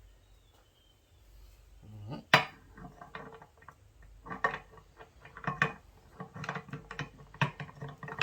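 Metal transaxle parts clinking and knocking as the gears and shafts are worked into the case of a Peerless 206 transaxle during reassembly. A single sharp knock a little over two seconds in is the loudest, followed by a run of irregular lighter clinks.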